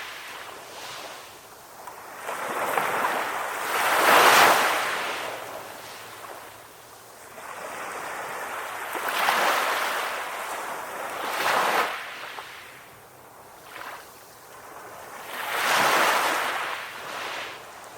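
Sea waves breaking and washing in, the surf swelling and fading in surges every few seconds, the biggest about four seconds in and another near the end.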